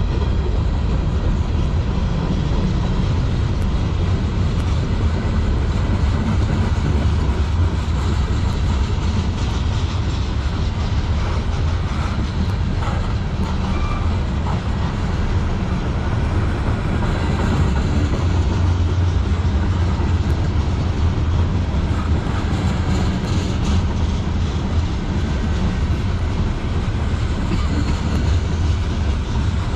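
Freight train cars, covered hoppers and tank cars, rolling past on steel wheels: a steady, even rumble of wheels on the rails.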